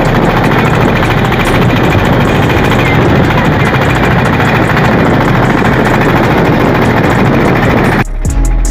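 Engine of a motorised river boat running steadily and loud, close to the microphone. Shortly before the end it cuts off suddenly and music begins.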